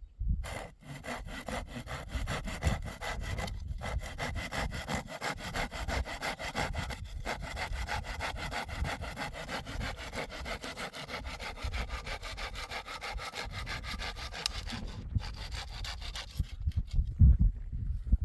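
Hand saw cutting through wood with quick, even back-and-forth strokes, which stop about two seconds before the end. A few separate knocks follow.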